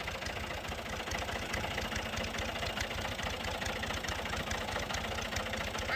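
Tractor's diesel engine running steadily at low revs, with a rapid, even chugging beat.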